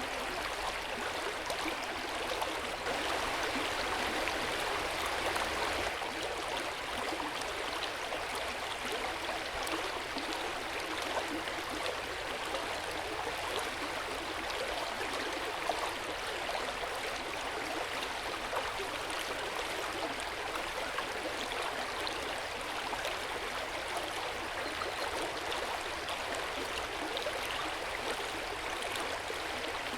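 Hot-spring water flowing steadily into an open-air onsen bath, an even gentle water rush that swells slightly a few seconds in.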